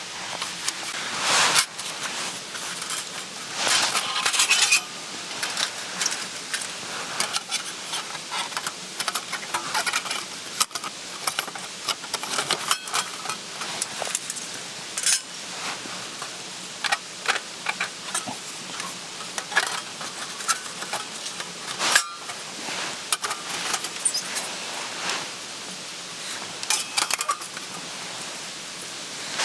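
Metal camp cookware and utensils being handled, with repeated short clinks, taps and clatters. There are a few longer rattling scrapes near the start and a sharp metallic knock about two-thirds of the way through.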